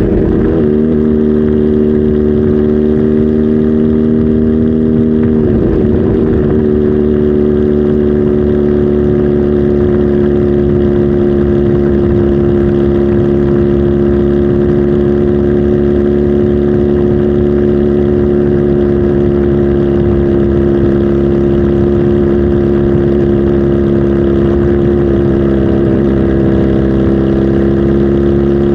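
Kawasaki Z H2 SE's supercharged inline-four engine running loud at steady revs, its pitch holding level apart from brief wavers at the start, about six seconds in, and near the end.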